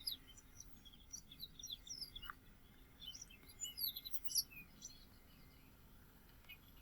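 Yellow-fronted canary singing: a faint run of quick, high chirping notes that dies away about five seconds in.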